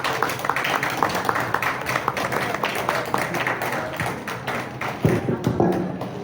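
Audience applauding: many hands clapping densely and irregularly, thinning out at the very end.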